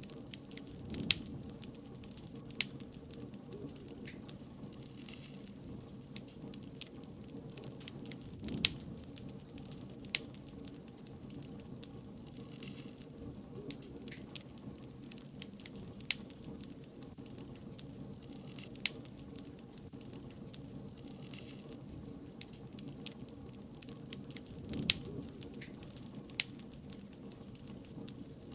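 Wood fire crackling: a steady low rumble of burning with many small ticks and snaps, and a louder sharp pop every few seconds at irregular intervals.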